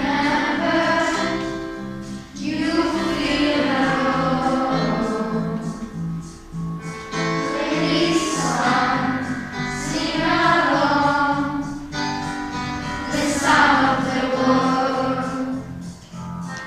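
Children's choir singing a song in chorus over instrumental accompaniment, the sung phrases rising and falling over a steady backing.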